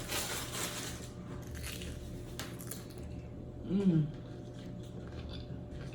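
Close-up chewing and crunching of crisp food, with crackly bites in the first second and quieter chewing after. A short hummed voice sound, the loudest thing, comes about four seconds in.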